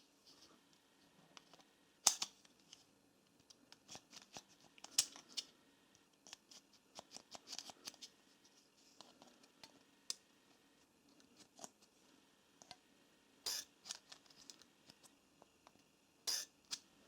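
Faint, scattered clicks and scrapes of small parts being handled, with a sharper click about two seconds in.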